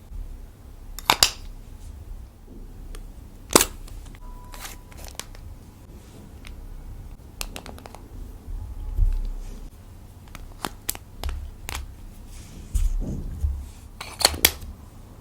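Irregular sharp clicks and pops, about a dozen, with soft low thumps between: hands working clear slime and lipsticks.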